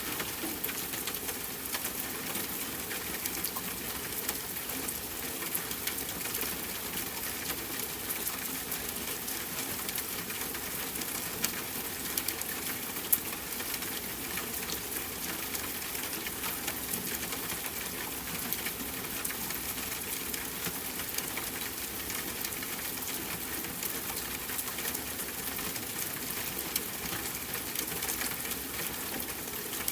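Soft, steady rain tapping on a window, with a wood fire crackling in a fireplace. A couple of sharper pops stand out around the middle.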